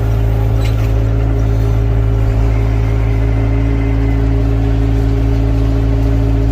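Excavator diesel engine running at a steady speed, an even hum with no change in pitch.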